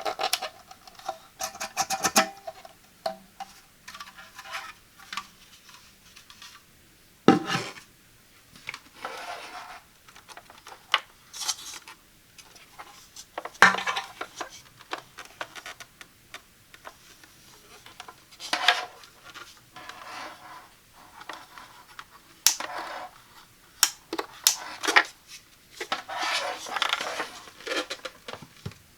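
Hard plastic parts of a cool mist humidifier being handled: scattered clicks, taps and rubbing, with a few sharper knocks as pieces are set down or fitted together.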